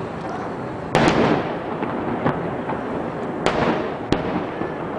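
Aerial firework shells bursting: two loud booms about two and a half seconds apart, each trailing off in an echo, with a few sharper, quieter cracks between and after them over steady background noise.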